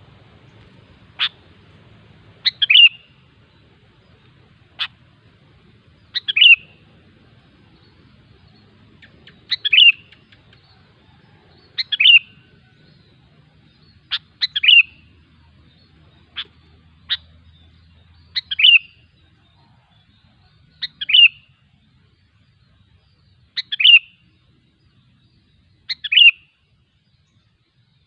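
Sooty-headed bulbul (kutilang) calling: short, bright phrases repeated about every two to three seconds, with a few single sharp notes in between.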